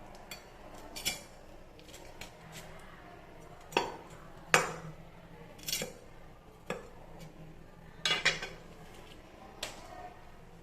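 Steel knife blades knocking and clinking in handling: a string of sharp metallic taps with brief ringing, irregularly spaced, the loudest about four and a half seconds in and two close together about eight seconds in.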